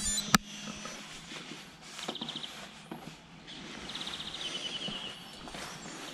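Songbirds singing: three short trills of rapidly repeated high notes a couple of seconds apart, with a single sharp click just after the start.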